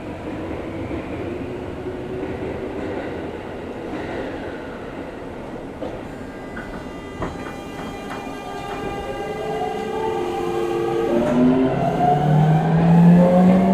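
Seibu 6000 series electric train pulling away: after a steady hum, its Hitachi GTO-VVVF inverter and traction motors start a whine of several tones that climbs in pitch in steps from about halfway through, getting louder as the train accelerates.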